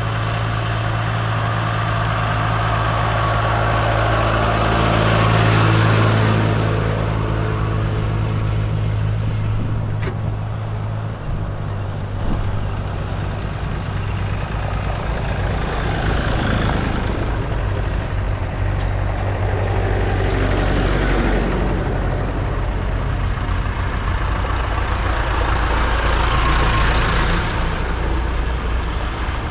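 Vintage tractor engines running, with a steady low engine note underneath. Several tractors drive past one after another, each one swelling and then fading.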